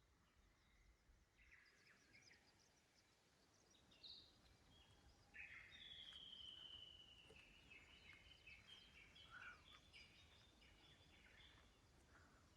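Faint birdsong: a long whistled note about five and a half seconds in, followed by a run of short chirps.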